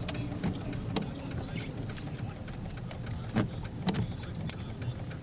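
Car driving in the rain, heard from inside: a steady low road rumble with scattered sharp ticks.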